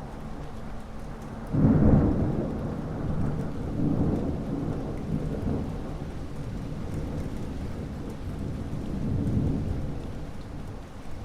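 Steady rain with thunder: a sudden loud thunderclap about a second and a half in, then a low rolling rumble that swells again twice.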